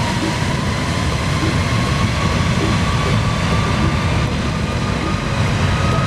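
Jet airliner engines running close by: a heavy, steady rumble with a whine that slowly rises in pitch.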